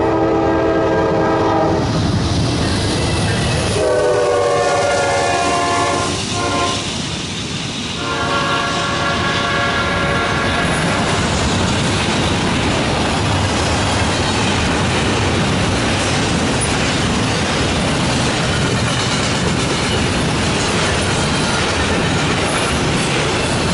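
Norfolk Southern freight locomotive air horn sounding three long blasts. A double-stack intermodal freight train then rolls steadily past, its steel wheels running on the rails.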